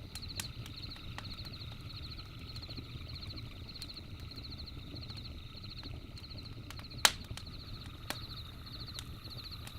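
Campfire crackling, with scattered sharp pops, the loudest about seven seconds in, over a steady low rumble. Insects chirp in short repeated trills throughout.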